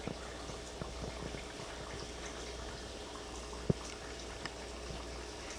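Faint steady bubbling of water, with scattered light ticks and one sharp click about three and a half seconds in.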